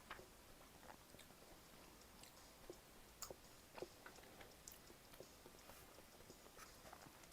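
A person chewing food, faint, with scattered small mouth clicks and soft bites, the sharpest a little past three seconds and just before four seconds in.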